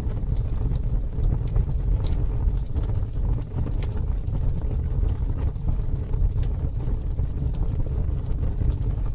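Campfire burning: scattered sharp crackles and pops of burning wood over a steady low rumble.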